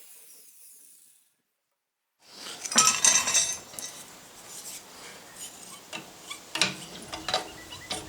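A power grinder's noise fades away in the first second. After a short silence come irregular metallic clinks and clanks of steel being handled and set down, loudest just under a second after they start.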